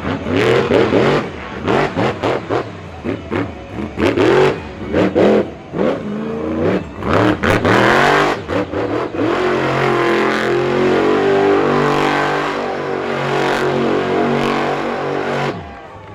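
Monster truck engine revving hard in repeated bursts, pitch sweeping up and down, then held at steady high revs for about six seconds before cutting off sharply near the end.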